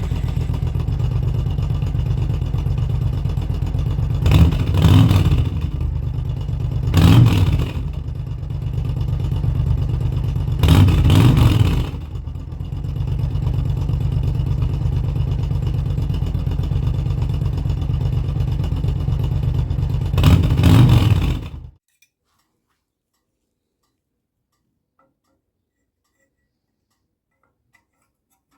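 Suzuki Intruder VS1400's V-twin engine idling through its adjustable replacement rear muffler, with four short throttle blips a few seconds apart. The engine is shut off about three quarters of the way through and cuts out sharply.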